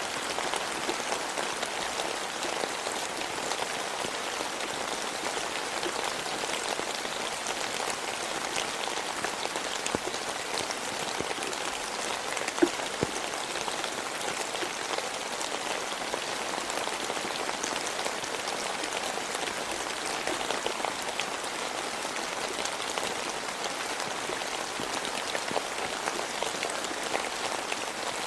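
Steady rain falling, with many separate drops ticking close by through an even hiss; one drop lands louder a little past the middle.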